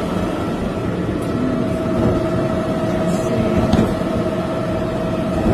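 Garbage truck's engine running with its hydraulic pump whining steadily as the truck's arm handles a trash can, with a few brief knocks about three to four seconds in.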